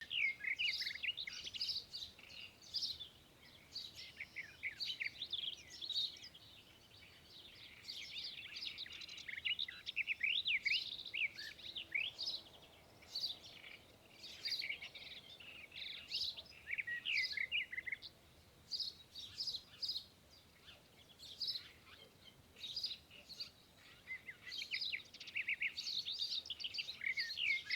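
Several small pet birds chirping and twittering in quick, high calls, coming in busy flurries with short lulls between.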